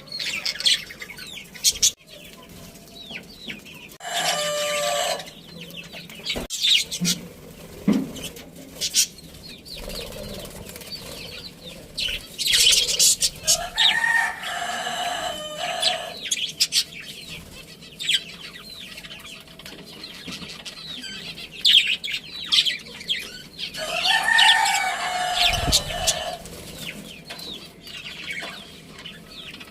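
A flock of budgerigars chirping busily throughout, with three long crowing calls from a rooster rising over them.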